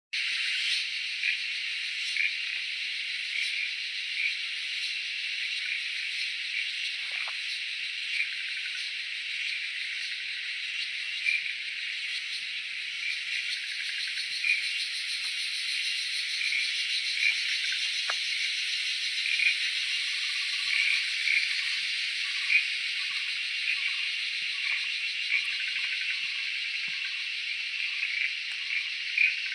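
Steady, dense chorus of forest insects, a high buzzing hiss with nothing low beneath it. Short chirping calls repeat about once a second on top, and a fainter, lower chirping joins in about two-thirds of the way through.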